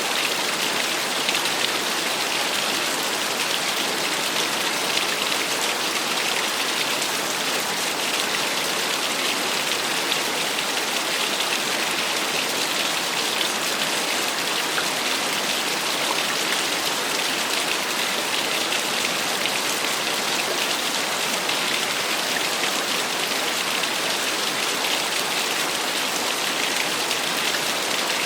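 Small waterfall: water splashing in a steady, even hiss with no change.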